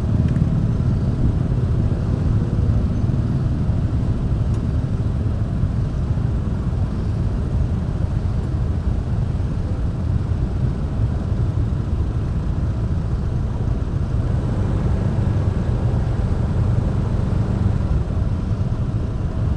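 Steady low rumble of a motorbike riding along a road, heard through the rider's action camera, with engine, tyre and wind noise blended into one even roar.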